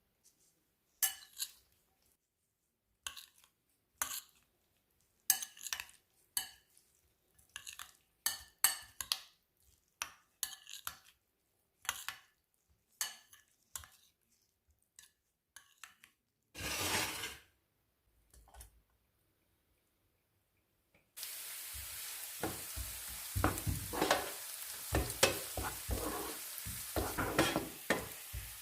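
A series of sharp clinks and taps, like utensils on dishes, with silent gaps between them. About three-quarters of the way in, a steady sizzle starts suddenly, with scraping strokes over it: food frying in a pan while it is stirred.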